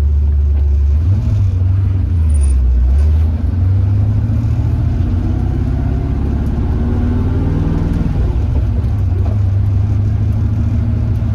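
Ford 302 V8 in a 1966 Mustang idling steadily with a deep exhaust rumble, its pitch wavering slightly early on. The engine runs smoothly on new spark plugs, with no exhaust leak at the freshly re-gasketed headers.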